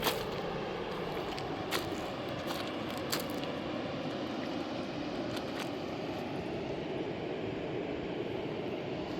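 A rushing mountain river gives a steady, even roar throughout. A few sharp clicks or knocks sound over it in the first few seconds and twice more about five and a half seconds in.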